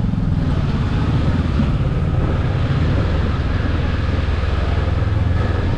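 Motorbike engine running steadily with an even low hum, its pitch holding level.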